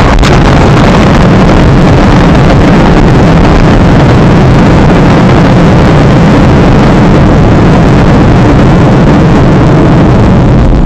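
Loud, steady vehicle noise recorded by a dashcam: an unbroken rumbling roar of engine, tyres and wind that does not change.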